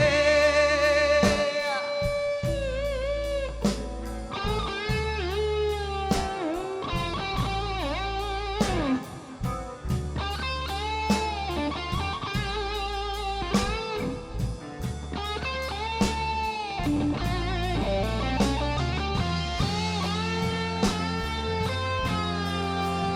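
A slow blues band playing an instrumental break: an electric guitar solo of held notes that bend and waver, over bass and drums.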